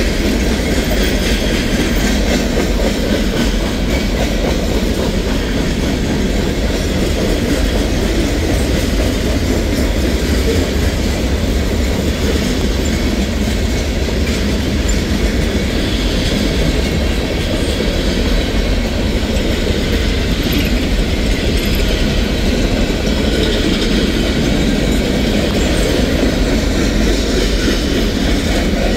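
Norfolk Southern freight train's boxcars and covered hoppers rolling past: a steady rumble and clatter of steel wheels on the rails.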